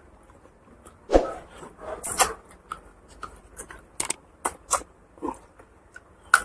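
Close-miked eating sounds: a man chewing a mouthful of pork curry and rice, with wet lip smacks and a string of short sharp mouth clicks.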